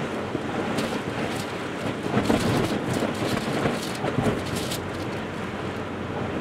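Rail train passing: a steady rumble with irregular sharp clanks, about one every half second to a second.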